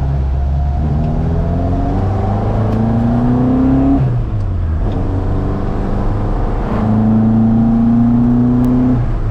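1975 Ford Mk1 Escort ex-rally car's engine pulling hard under acceleration, its pitch climbing steadily through one gear. About four seconds in the revs drop briefly for a gear change, then climb again through the next gear before easing off near the end.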